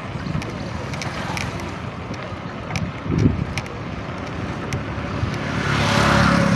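Road traffic with wind buffeting the microphone; near the end a motor vehicle passes close, its engine and tyre noise swelling loud.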